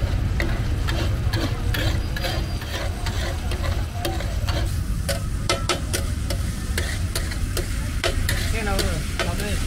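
Metal spatula scraping and clacking on a large flat tawa griddle as chopped liver fries in oil, with a steady sizzle and many sharp clicks from the spatula. A steady low rumble runs underneath.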